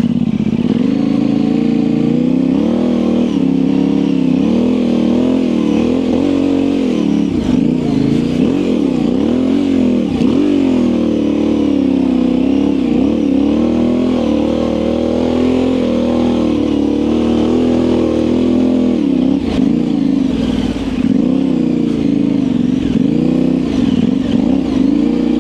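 Yamaha Ténéré 700's parallel-twin engine running through an aftermarket high exhaust, revs rising and falling in short swells as the throttle is worked at low speed on a loose dirt trail.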